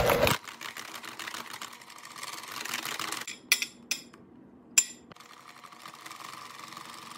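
Electric hand mixer running steadily, creaming butter with egg-yolk custard into a buttercream frosting, louder for a moment at the start. It stops about three seconds in, a few sharp taps of a spatula on the glass bowl follow, and the mixer starts again about five seconds in.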